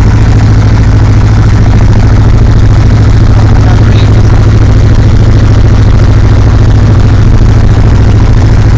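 Cessna 150's four-cylinder Continental O-200 engine and propeller running steadily at low taxi power, a loud, even drone.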